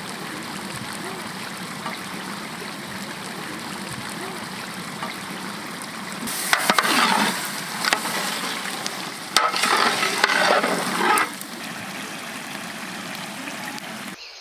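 Biryani cooking in a pot: a steady hiss over the heat, with two louder spells of handling about six and nine seconds in, each with sharp clicks of a metal utensil against the pot. The sound cuts off just before the end.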